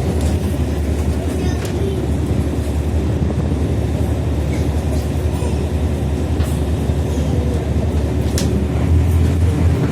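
Mercedes-Benz OH-1420/51 bus's rear-mounted diesel engine with a free-flowing exhaust, a steady low drone as the bus drives, with body rattles and clicks throughout. The drone grows louder near the end.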